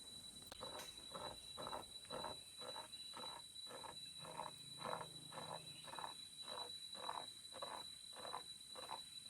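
A forest animal calling in a long run of short, evenly spaced pulses, about two a second, over a steady high-pitched insect whine and hiss.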